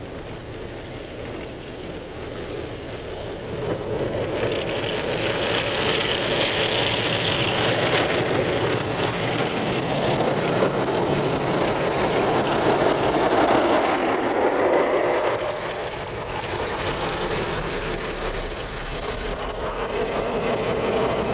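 Belanger automatic car wash tunnel at work: a steady rush of water spray and wash equipment against the car, building up over the first few seconds, with a hiss that is strongest early on.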